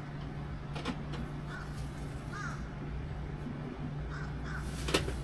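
Crows cawing: a few short calls over a steady low hum. A sharp click near the end.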